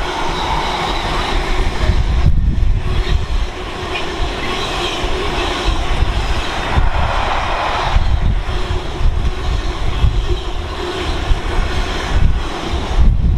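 Freightliner Class 66-hauled container freight train passing, its wagons rolling over the rails with a continuous loud rumble.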